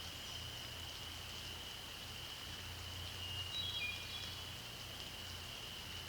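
A hermit thrush sings one short phrase of clear, flute-like notes at several pitches about three and a half seconds in. Under it runs a steady high-pitched chorus and a low steady hum.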